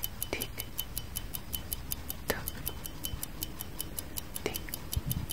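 Clock tick-tock sound effect: fast, even ticking, with a short falling sound about every two seconds.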